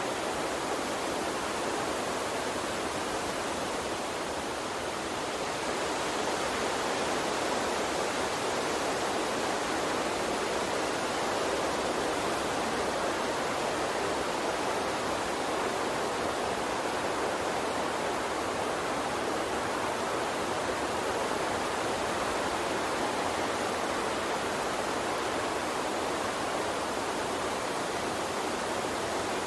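Small stream flowing steadily, an even rush of water that swells slightly about five seconds in.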